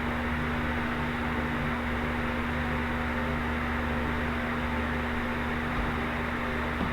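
A machine running steadily: an even hiss with a constant low hum, unchanging throughout.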